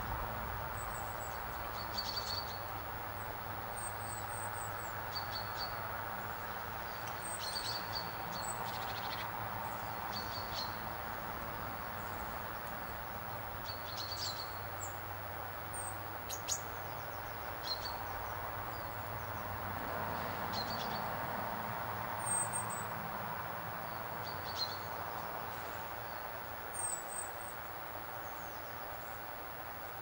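Wild birds giving short, high chirps every second or two, some calls higher-pitched than others, over a steady background hiss.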